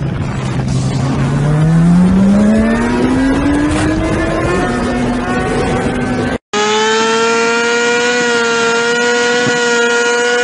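Motorcycle engine revving, its pitch climbing for about three seconds and then holding steady. After a sudden break about six seconds in, a motorcycle engine runs at a steady high pitch.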